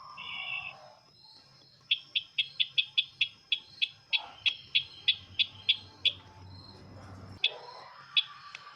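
Sisintar bird call used as a bird-trapping lure: a short warbling phrase, then a rapid run of sharp, high chips at about four a second, followed by two more spaced-out chips. A faint steady high buzz runs underneath.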